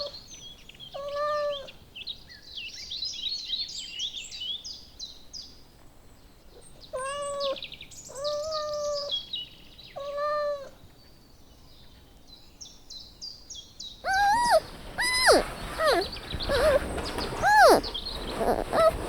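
Small birds chirping and twittering, with a short animal call of steady pitch repeated several times, each about half a second long. About two-thirds of the way through the sound changes abruptly to a run of quick calls that rise and fall in pitch.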